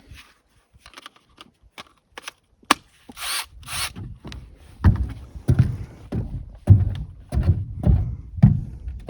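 Roof installation work on sandwich panels: scattered clicks and knocks, a short two-part hiss about three seconds in, then a run of heavy thuds, roughly one or two a second.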